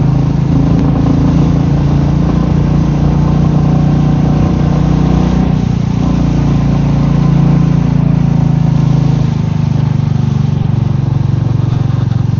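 Royal Enfield Meteor 350's single-cylinder engine running steadily while riding at low road speed, its pitch shifting slightly a couple of times.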